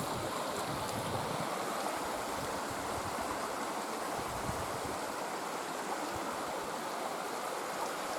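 Steady rushing of flowing water, like a small stream. Wind buffets the microphone in the first second or two, then dies away.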